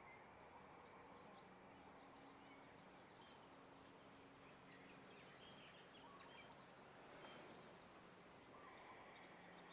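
Near silence: faint outdoor ambience with scattered short bird chirps and a faint steady low hum.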